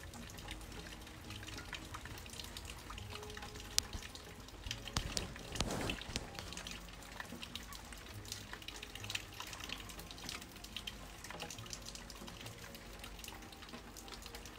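Rain falling, with many irregular drips and patters, and a brief louder rush of noise about five seconds in.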